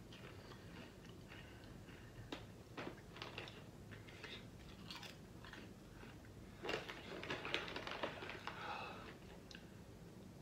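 Kettle corn popcorn being chewed, a faint crunching: scattered small crunches at first, then a louder run of crunching about seven to nine seconds in.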